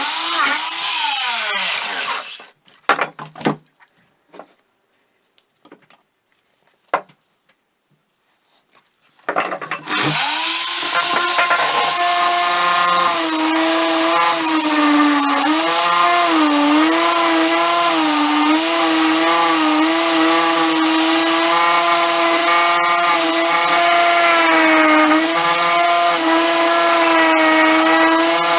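Electric power tool motor running with a pitched whine, cutting out after about two seconds. A few small clicks and knocks follow in a quiet gap, then the motor starts again about ten seconds in and runs steadily, its pitch dipping briefly as it is pressed into the work.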